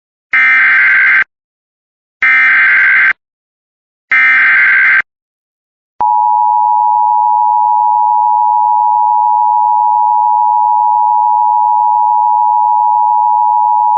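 Emergency Alert System severe thunderstorm warning opening: three short bursts of warbling SAME data-header tones, then a single steady attention tone near 1 kHz held for about eight seconds, signalling that a warning message follows.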